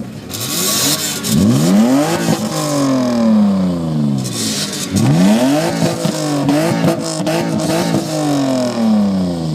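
BMW M3 straight-six engine revved hard twice while parked. The first rev shoots up quickly and sinks slowly back; the second climbs, is held with a few small blips, then falls away.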